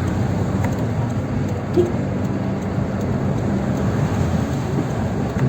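Car driving along a road: steady engine drone and road noise, with one small knock about two seconds in.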